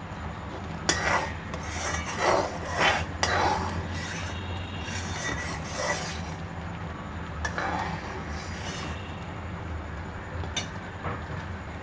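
A ladle scraping and stirring in a pan of jaggery syrup being cooked to one-string consistency: a run of rasping strokes in the first half, a couple more later and a sharp click near the end, over a steady low hum.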